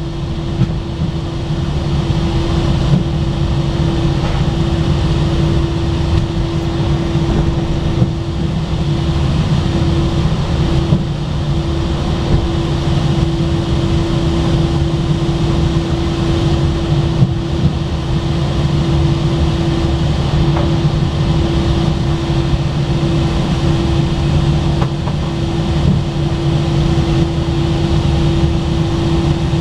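Airbus A319 cabin noise with the engines running steadily while taxiing: a low rumble, a constant hum, and a hiss of airflow.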